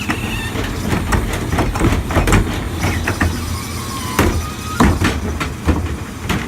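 Diesel engine of a Mack LEU garbage truck running steadily, with a series of sharp metallic clanks and knocks over it, loudest about two seconds in and again near five seconds.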